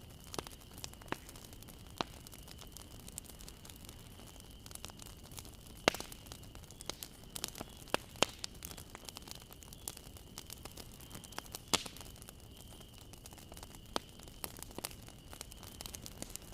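Bonfire crackling: irregular sharp pops and snaps of burning wood over a low steady hiss, the loudest pops about 6, 8 and 12 seconds in. A faint steady high whine sits underneath.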